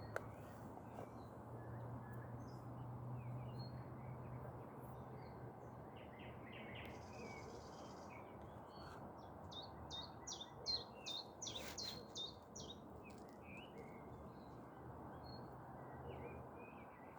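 Small birds chirping and singing, with scattered high calls and a quick run of about a dozen chirps around ten to twelve seconds in. Beneath them runs a steady low rumble of city background noise.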